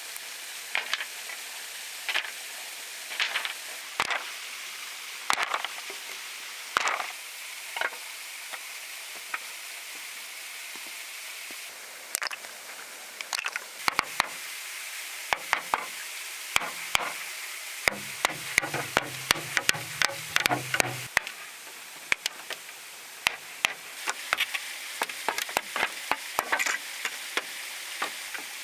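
Irregular sharp taps and knocks, some coming in quick clusters, over a steady high hiss, with a short low hum about two-thirds of the way through.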